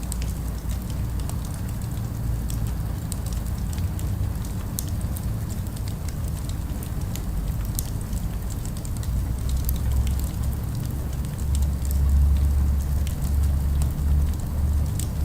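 Wood fire crackling, with scattered sharp pops, over a low rumble of city traffic that swells in the second half.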